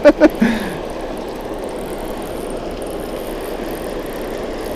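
Steady rushing noise of water pouring through a river spillway.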